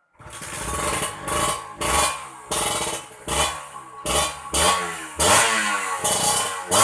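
Two-stroke single-cylinder engine of a Kawasaki Ninja 150 RR, fitted with an aftermarket KDX exhaust, being revved in a rapid series of throttle blips, each rev falling away before the next. The sound starts abruptly just after the opening.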